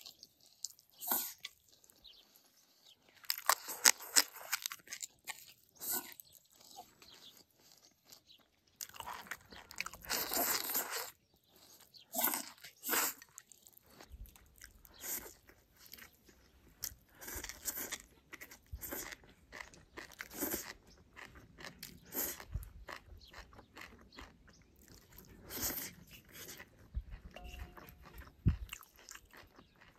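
A person chewing and biting mouthfuls of rice with stir-fried pork and garlic sprouts, in irregular bursts of eating noise.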